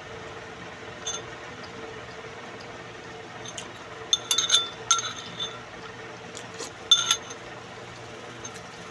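Eating utensils clinking against a dish: a single light clink about a second in, a cluster of ringing clinks in the middle, and two more near the end. A steady low hum runs underneath.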